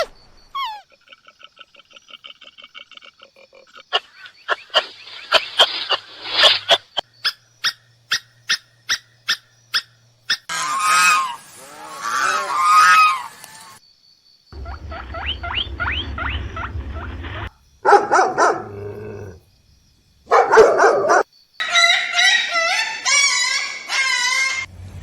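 A string of different animal calls cut one after another, with a run of evenly spaced clicks partway through.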